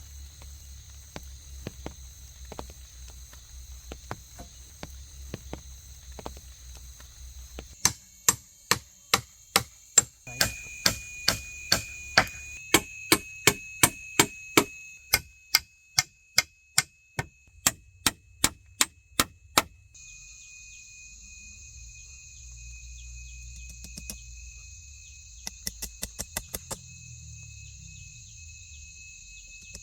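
A knife blade chopping bamboo in loud, evenly spaced strikes, a little under two a second, for about twelve seconds before stopping, with faint strikes before and after. Rainforest insects drone steadily underneath with a thin, high steady tone.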